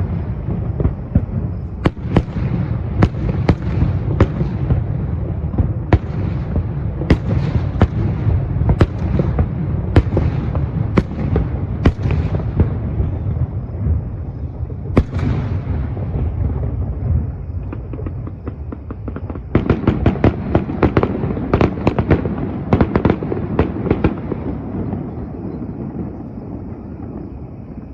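Aerial fireworks display: shells bursting in sharp bangs over a steady low rumble, with a rapid volley of many bangs about twenty seconds in, then dying away near the end.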